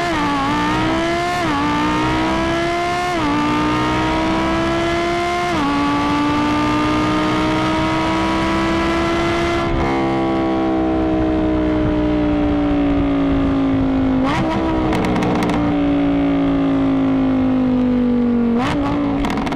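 Underground Racing twin-turbo Lamborghini Gallardo V10 accelerating hard through the gears on a quarter-mile pass: the engine note climbs and drops at each upshift, four times in the first six seconds, then holds and climbs slowly. About ten seconds in the driver lifts off and the note falls steadily as the car slows, with two short rises later on, each with a brief burst of hiss and clatter.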